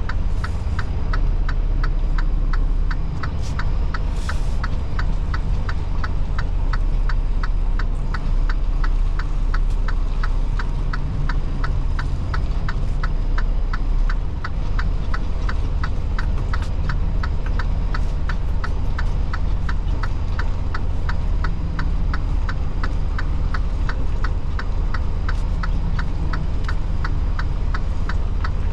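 Semi truck's diesel engine rumbling steadily, heard from inside the cab, with an even ticking at about two to three ticks a second throughout.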